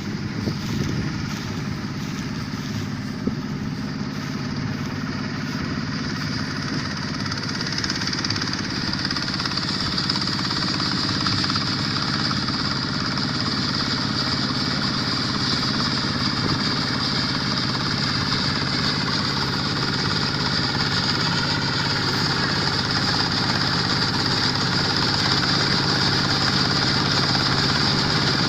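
Combine harvester's Kubota diesel engine running steadily, with a high whine from the machinery coming in about eight seconds in and the whole sound growing slowly louder.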